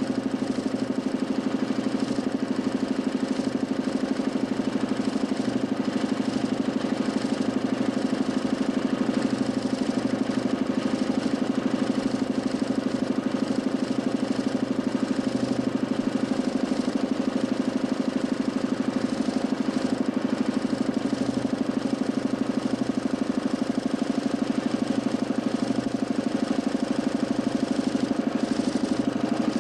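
DC motor spinning the 40cm plywood Nipkow disc of a homemade mechanical television: a steady motor noise with a fast, even pulsing.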